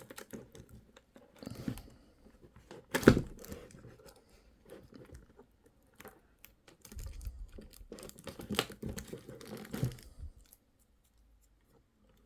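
Toy packaging being handled and pulled apart: crinkling plastic and tearing, with one sharp click about three seconds in and a denser spell of rustling towards the end.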